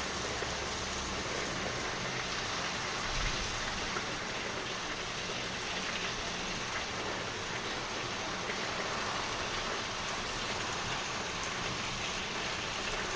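Heavy rain pouring down in a steady hiss, with a small bump about three seconds in.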